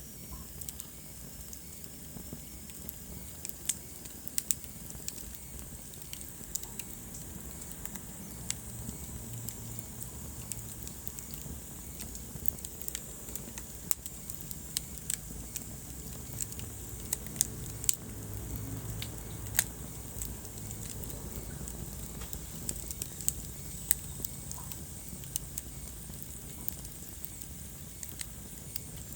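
Wood fire crackling in a fireplace: irregular sharp pops and snaps, a few of them loud, over a steady low rumble and hiss.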